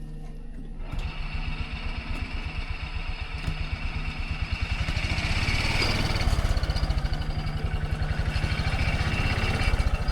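A vehicle engine idling, then speeding up about a second in and running harder with a fast, even pulse that grows louder for a few seconds and then holds steady.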